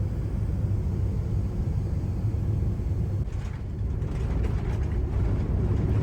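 A steady low rumble, with some faint higher-pitched noise in the second half.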